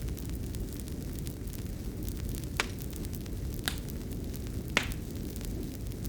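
Fireplace fire burning with a steady low rumble and fine crackling, with three louder sharp pops about a second apart in the second half.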